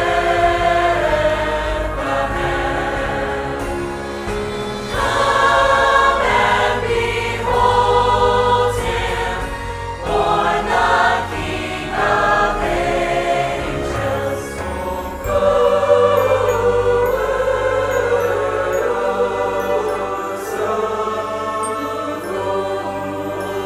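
Church choir singing a song with instrumental accompaniment, sung phrases moving over sustained low notes.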